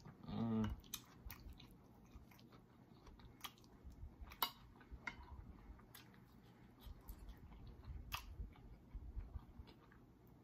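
Close-miked mouth sounds of a person chewing fried red snapper: soft, scattered clicks and smacks, a few sharper than the rest. There is a short hum about half a second in.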